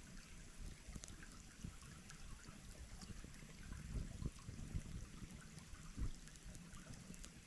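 Small stream trickling and babbling, with scattered faint clicks.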